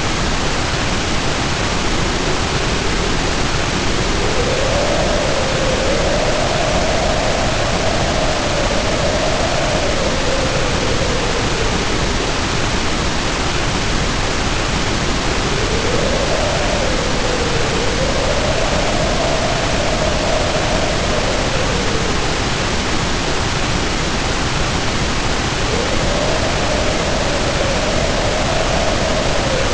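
Storm sound of heavy rain pouring as a steady hiss, with wind howling over it: a moaning tone that swells and falls three times, roughly every ten seconds.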